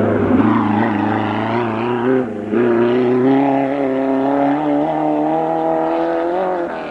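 Race car engine running hard at high revs on a hill climb. There is a brief drop about two seconds in, then it holds fairly steady revs.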